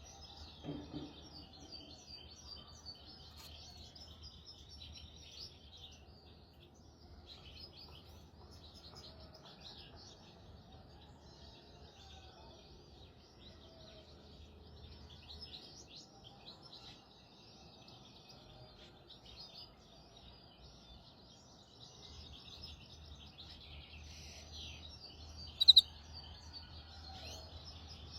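Hybrid (mule) finch singing a long, continuous twittering song of rapid high notes and trills, the kind of song used as a tutor for young goldfinches and canaries. Near the end comes one brief, much louder sharp sound.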